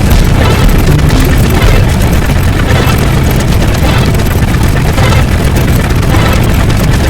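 A loud, dense mix of layered sound effects with a steady deep rumble, with no single sound standing out.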